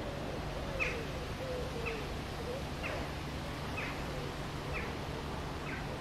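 A bird calling in short downward chirps, six of them about a second apart, over a steady low background hum.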